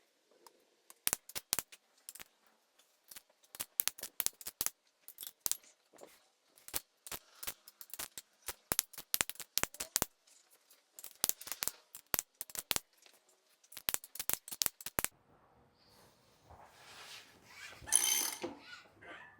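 Sharp metallic clicks and clinks in quick irregular runs from hand tools and metal parts worked on the H22 engine block during piston installation. Near the end, a softer, noisier stretch follows, with one louder sound.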